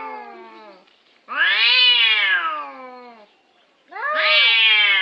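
Domestic cat giving long, drawn-out meows, each about two seconds long and rising then falling in pitch. One call trails off at the start, a full meow comes about a second in, and another begins near the end.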